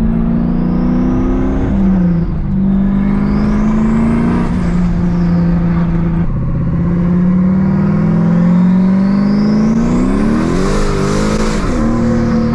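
Turbocharged Chevrolet Camaro engine accelerating hard through the gears, its pitch climbing and then dropping at each shift, several times over. A rising turbo whistle goes up with each pull, loudest in the last, longest pull near the end, which breaks off with a hiss at the shift.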